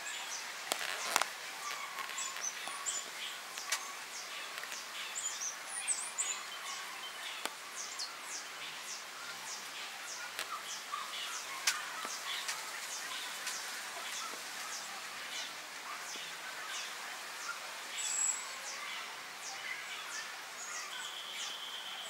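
Small birds chirping: many short, high chips and quick chirps, with a few sharp clicks in between. A steady high tone comes in near the end.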